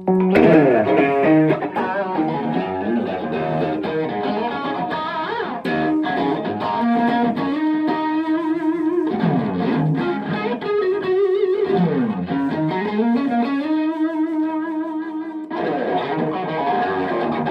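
Electric guitar playing a lead line with bent and sliding notes, amplified by a pocket-sized valve power amp (an EF95 mini pentode feeding a class D output stage) into a 4x12 speaker cabinet.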